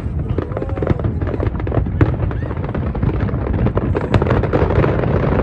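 Fireworks going off in quick succession: a dense run of bangs and crackles over a steady low rumble, with a couple of sharper bangs about two and four seconds in.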